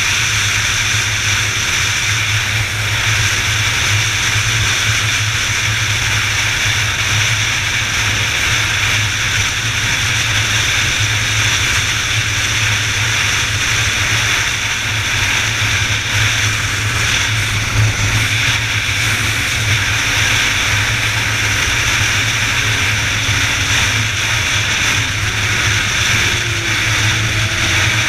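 Steady road and wind noise of a moving vehicle, with a low hum and a hiss that run unbroken. Faint rising engine tones come in near the end.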